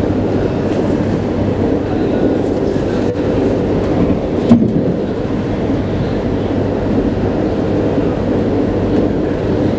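Passenger train running at speed, heard from inside the carriage: a steady rumble with a low hum. A single sharp knock comes about halfway through.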